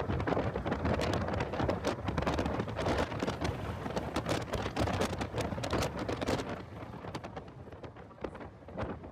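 Heavy wind buffeting on the microphone of an in-car camera in a car at track speed, a crackling rumble that eases off about six and a half seconds in.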